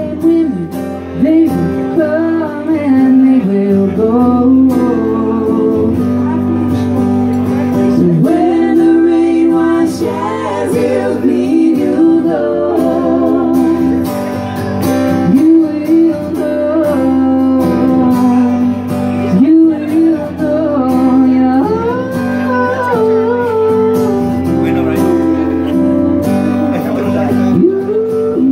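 Live rock band playing, with singing over guitar and a steady bass.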